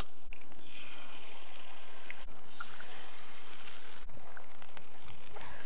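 Onions and oil sizzling steadily on a hot griddle, an even frying hiss.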